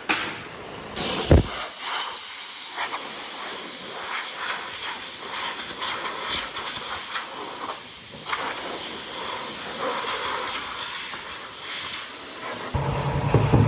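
A steady, loud hiss that starts abruptly about a second in and cuts off suddenly near the end, with a short thud just after it starts.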